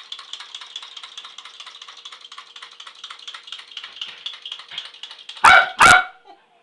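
A dog barks twice in quick succession, loudly, about five and a half seconds in. Before the barks there is a fast, even rattling that fades away.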